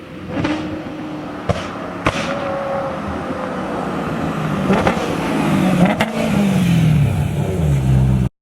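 Straight-piped BMW E90 M3's S65 4.0-litre V8 exhaust running loud and getting louder, with several sharp exhaust pops and cracks. Its pitch falls over the last couple of seconds, and the sound cuts off suddenly just before the end.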